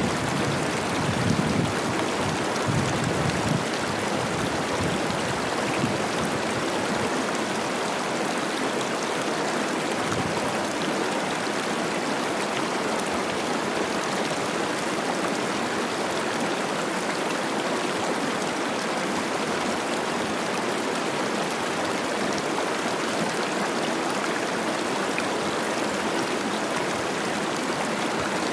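Steady rushing and babbling of the Cache la Poudre River, high and fast with spring snowmelt. There are a few low gusts of wind on the microphone in the first few seconds.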